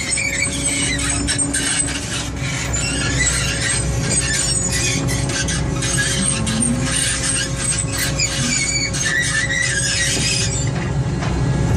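Excavator at work: its engine runs with a low rumble and a steady tone, under dense, high-pitched squealing that eases off near the end.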